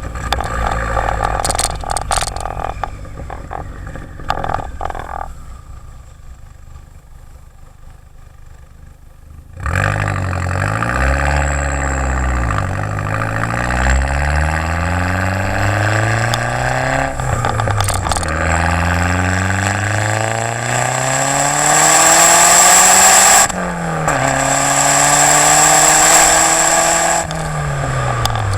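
Modified Volkswagen Jetta GLI turbocharged four-cylinder with a 3-inch downpipe and Magnaflow race exhaust, accelerating hard. The engine note climbs in pitch and drops sharply at each gear change, three times. Before that the engine is quieter for several seconds, then it comes in suddenly and loudly about a third of the way in.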